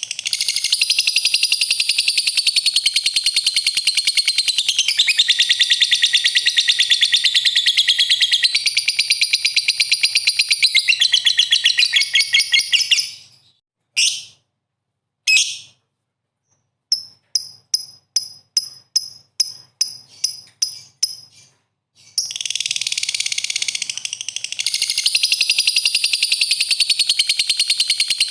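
Recorded songbird song played as a lure for caged fighter birds: loud, high-pitched, rapid chattering song. It breaks off about halfway through for a couple of short calls and then a run of about a dozen separate short chirps, and the continuous chattering comes back near the end.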